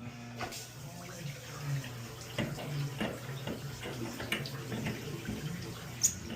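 Water running from a tap, with scattered short clicks and knocks throughout.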